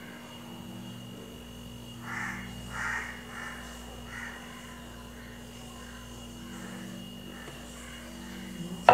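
A bird giving a series of short calls, loudest two to three seconds in, then weaker ones repeating about every half second, over a steady background hum.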